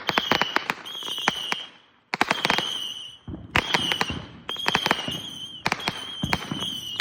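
Consumer fireworks going off: a steady, slightly wavering high whistle over rapid crackling pops. The sound breaks off abruptly and restarts a few times.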